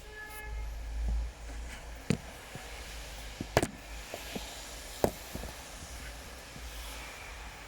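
Steady rain hiss with a scatter of close, sharp drops striking a surface, the loudest about two, three and a half and five seconds in.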